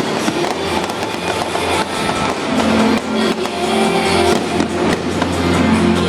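Fireworks bursting and crackling, many sharp bangs in quick succession, over music played through a stadium's loudspeakers.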